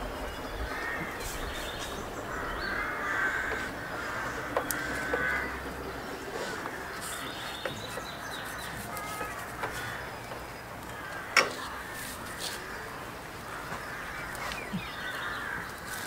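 Birds calling in the background, many overlapping calls, with one sharp click about eleven seconds in.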